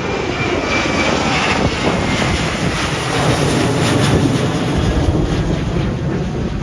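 Twin CFM56 turbofan jet engines of a Boeing 737-based E-7A Wedgetail airborne early-warning aircraft at takeoff power as it departs, a loud, deep rushing jet noise that builds to its loudest about four to five seconds in, then eases slightly.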